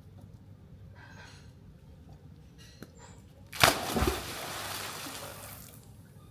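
A sudden loud splash in pool water about three and a half seconds in, its spray hissing away over about two seconds.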